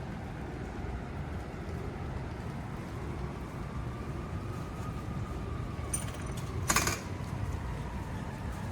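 Steady low rumble of city traffic, with the faint rising and falling pitch of a vehicle passing, and one short, sharp noise about seven seconds in.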